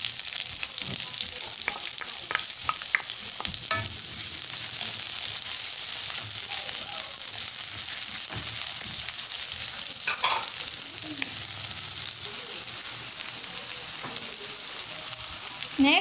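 Sliced onion and chopped garlic sizzling steadily in hot oil in a metal wok, sautéing, while a wooden spatula stirs them with scattered scrapes and light taps against the pan.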